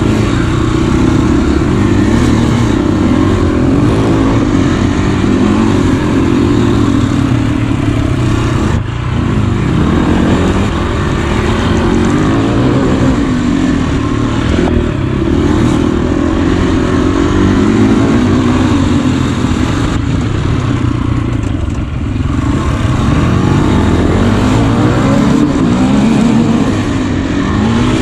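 KTM EXC enduro motorcycle engine running hard on a dirt track, revving up and down through the corners and gear changes, heard close up from the bike's own camera. The throttle is briefly shut twice, about nine seconds in and again near twenty-two seconds.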